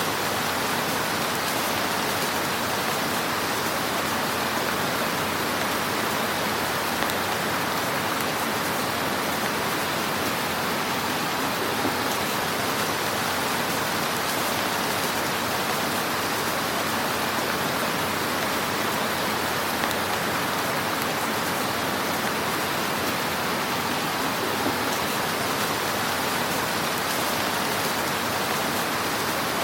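Fire burning in a fireplace: a steady rushing hiss with a few faint pops.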